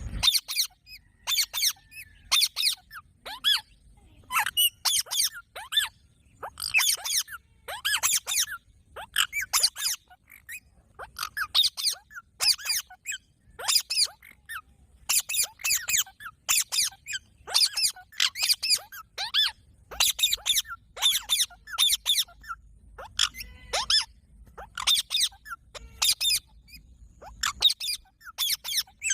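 Green parrot calling in rapid bursts of short, high, squeaky calls, each burst a cluster of quick notes sliding down in pitch, repeating about once a second.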